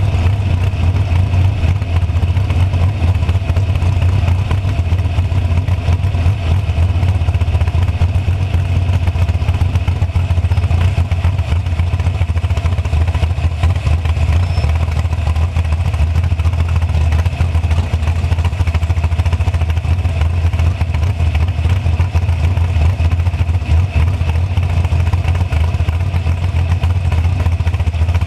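Drag-racing car's engine idling steadily with a fast, even flutter while the car rolls slowly.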